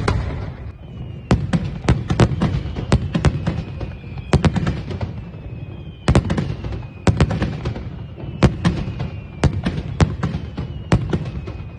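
Fireworks display: rapid clusters of sharp bangs and crackles from bursting shells, with a faint falling whistle now and then.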